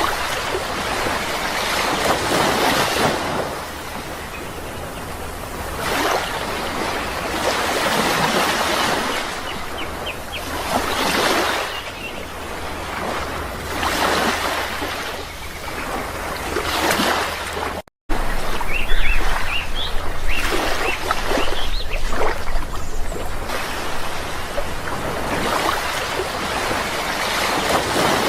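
Sea waves breaking and washing up in repeated swells, one about every three seconds, with a few short bird chirps. The sound cuts out for an instant about two-thirds of the way through.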